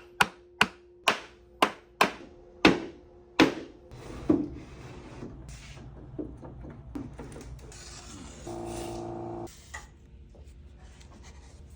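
About eight sharp knocks on wood, roughly two a second, fading off after about four seconds; then lighter rubbing and handling on wood, with a brief steady buzz for about a second near the end.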